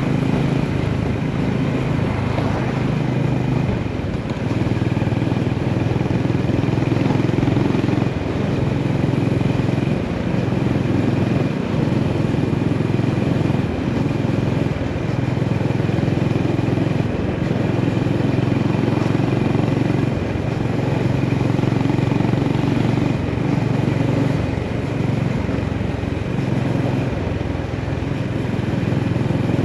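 Honda GB350S's air-cooled single-cylinder engine running under way, its note shifting every few seconds with throttle and gear changes.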